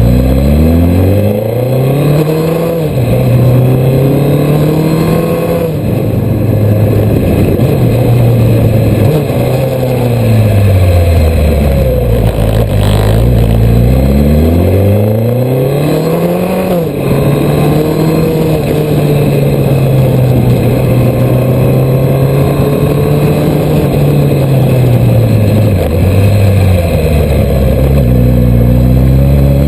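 Suzuki GSX 1300R Hayabusa's inline-four engine, heard from the bike itself as it accelerates and slows, its pitch rising and falling again and again. It drops low twice and climbs sharply back up, then holds a steady pitch for several seconds before easing off and rising again near the end.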